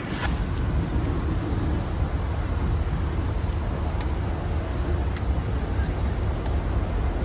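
Passenger train on the track: a steady low rumble with a few sharp clicks scattered through it.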